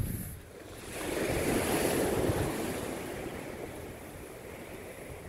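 Ocean surf: a wave breaks and washes up the beach, swelling about a second in and then fading away.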